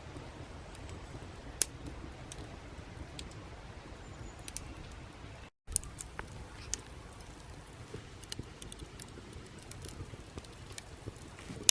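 Wood fire crackling in a fire pit: scattered sharp pops and ticks over a low steady rumble, with one louder snap about a second and a half in. The sound drops out for a moment about halfway through.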